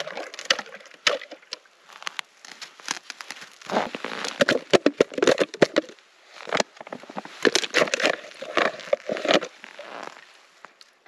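A knife scraping the scales off a grayling in runs of quick, rasping strokes, the busiest about four to six seconds in and again about seven and a half to nine and a half seconds in.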